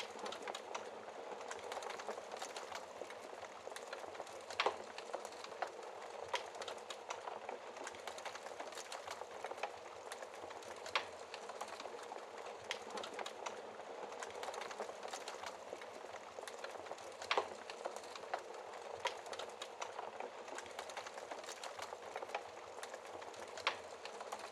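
Wood fire burning in a fireplace: a steady fine crackle of burning logs, with sharp louder pops now and then, the strongest about five, eleven, seventeen and twenty-four seconds in.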